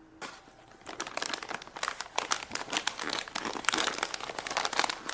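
Crinkly packaging being handled and crumpled in the hands, a dense irregular crackling that starts about a second in and runs in uneven bursts.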